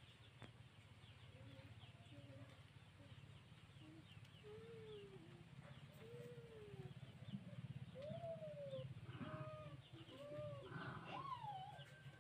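Faint birds calling: a series of low, arching calls that come more often and louder over the second half, with small high chirps scattered throughout, over a steady low hum.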